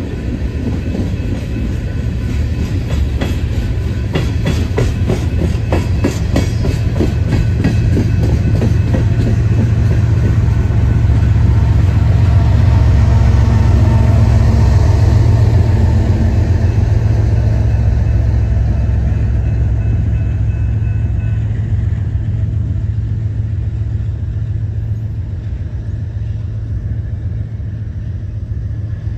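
Coal hopper cars rolling by with their wheels clicking rhythmically over the rail joints. Then a pair of BNSF GE ES44AC diesel-electric locomotives, the train's rear distributed-power units, pass with a deep engine rumble that is loudest in the middle and fades as the train moves away.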